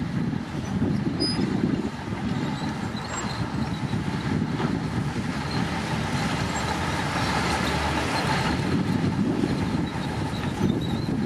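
Komatsu D65P bulldozer's diesel engine running steadily under load while it works soil.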